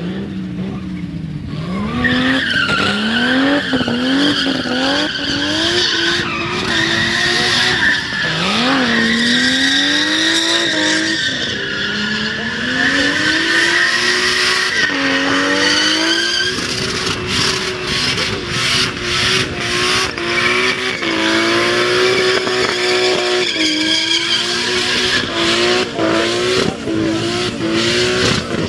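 Nissan Skyline R31's RB20 straight-six revving hard through a burnout, the tyres squealing steadily. The revs climb and fall again and again, with a run of quick short blips near the end.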